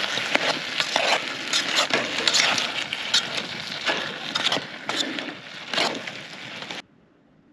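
Shrimp, sausage and onions sizzling in a pan over a wood fire, a steady hiss with many sharp crackles and pops. It cuts off suddenly about a second before the end.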